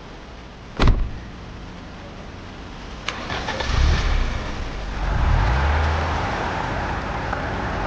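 Two sharp knocks, then a car engine starting and running steadily.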